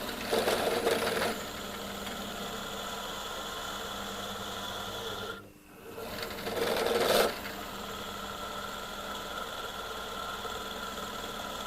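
Pillar drill running with a steady motor hum, with two louder stretches of the bit cutting into steel, near the start and about two thirds of the way through. The sound drops away briefly just before the second cut.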